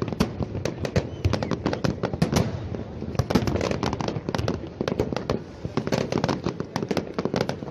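Fireworks display: a dense, irregular barrage of bangs and crackles from many shells bursting at once, several each second without a break.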